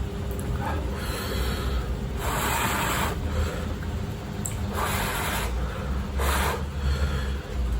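A person eating instant cup noodles close to the microphone, with several loud slurps or sucking breaths at intervals over a steady low hum.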